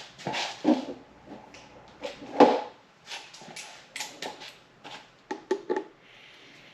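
Irregular knocks and clatter of hand tools and metal parts being handled on an engine, with a few sharp clicks close together near the end.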